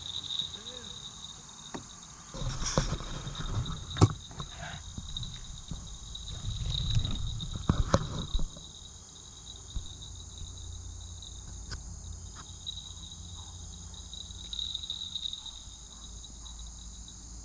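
Steady high insect chorus, crickets chirring without a break. From about two to eight and a half seconds in there are bursts of rustling and a few sharp knocks, the loudest about four seconds in.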